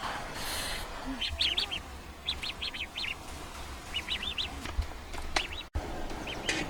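A small bird chirping in quick runs of three to five short high notes, four or five runs in all, with a few sharp clicks in between.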